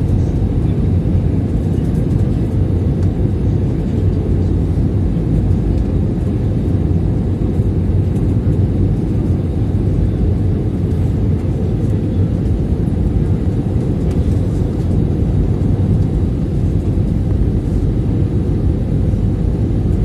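Airbus A320 cabin noise on the approach to landing: a steady low rumble of engines and airflow heard from inside the cabin, with a faint low hum under it.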